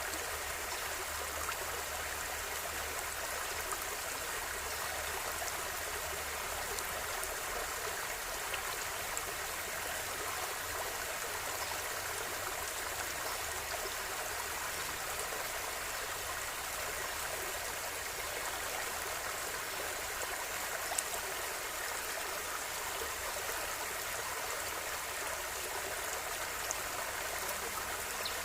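River water flowing steadily over stones, an even rushing burble with a few small drips and splashes.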